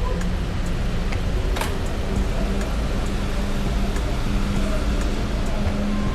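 Steady rain with a low rumble underneath and a faint hum.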